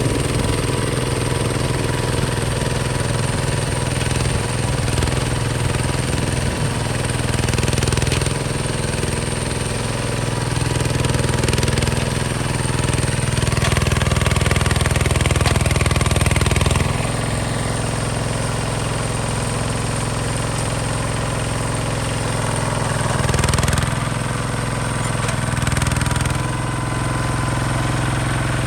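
Hinota HG Gold 155 DI tractor's diesel engine running steadily, a little louder for a few seconds past the middle before dropping back.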